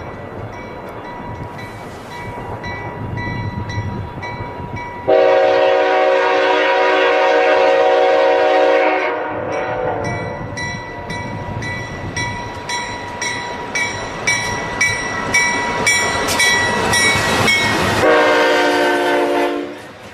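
Freight locomotive horn, an EMD SD75i's, sounding one long blast of about four seconds and a shorter blast near the end. Between the blasts the train rumbles past and a bell rings steadily.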